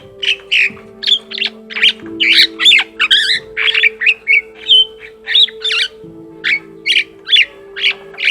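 Vinous-breasted starling singing a fast, varied song of short harsh and whistled notes, about two to three a second, changing note shapes from one to the next.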